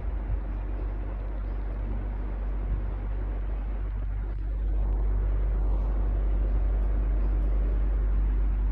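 Electric fan running steadily: an even whir over a low hum, the hum growing louder about halfway through.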